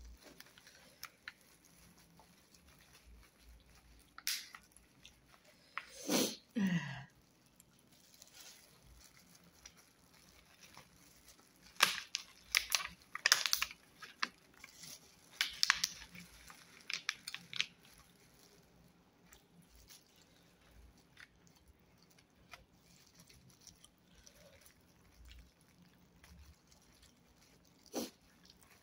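A person chewing and crunching food close to the microphone, in scattered bursts of short crunchy bites, the busiest stretch about halfway through. About six seconds in there is one short falling sound.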